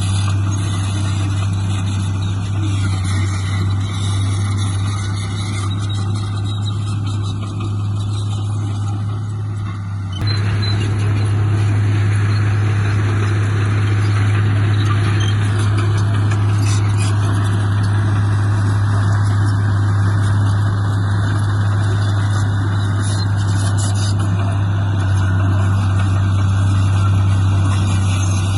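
Heavy earthmoving machine's diesel engine running steadily with a low hum. About ten seconds in the sound jumps abruptly a little louder.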